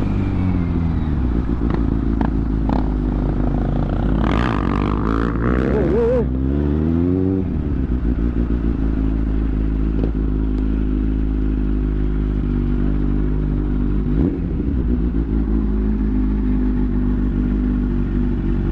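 Motorcycle engine idling steadily, with a rise and fall in engine pitch about four to seven seconds in and a few sharp clicks and clatter near the start.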